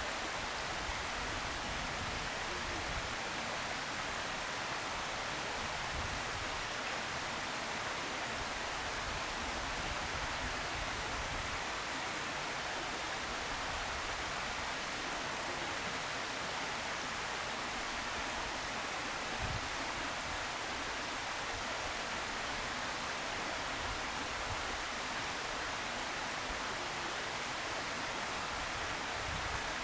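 Steady, even hiss with faint low rumbles underneath, unchanging throughout and with no distinct calls or knocks.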